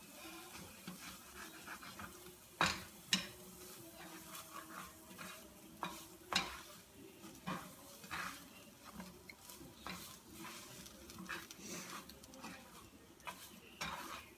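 A spoon stirring and knocking in a cooking pot, with light scattered clinks and two louder knocks about three seconds in.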